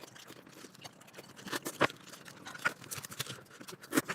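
Quiet eating sounds at a table: a handful of scattered short clicks and smacks, with chewing and utensils against a bowl.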